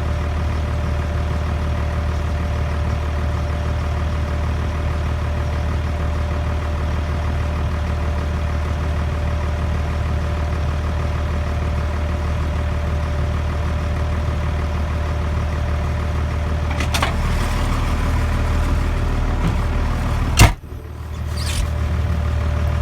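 Case 5140 tractor's 5.9-litre Cummins six-cylinder diesel running steadily at idle. Some rattling comes in about 17 seconds in, and one loud sharp knock comes about 20 seconds in.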